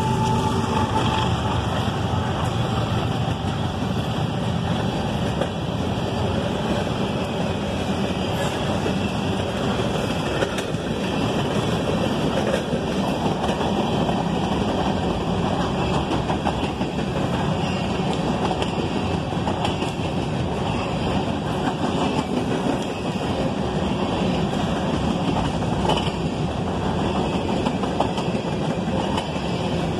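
Covered hopper cars of a freight train rolling past at close range: a steady rumble and clatter of steel wheels on the rails.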